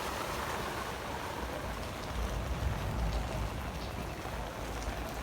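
Steady rain falling, with a low rumble that comes up about two seconds in.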